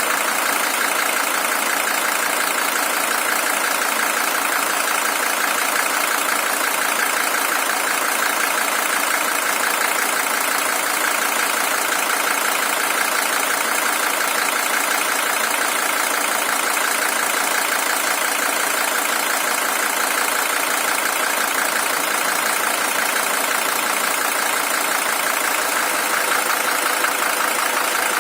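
Mercedes-Benz OM617 five-cylinder diesel engine idling steadily, an original engine with 620,000 km on it.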